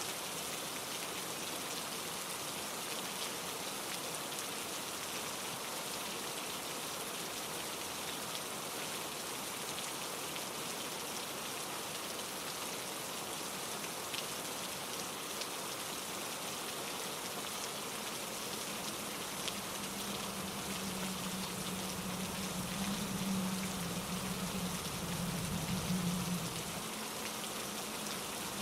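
Steady rain falling on trees and rocks, an even dense hiss. About two-thirds of the way through a low hum comes in and swells for a few seconds near the end.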